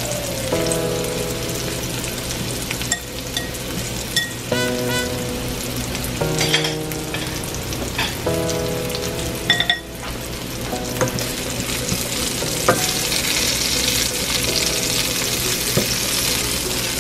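Sliced onion rings sizzling in a hot stainless steel skillet. Near the end a metal spoon stirs them, with a few clicks against the pan, and the sizzle grows brighter.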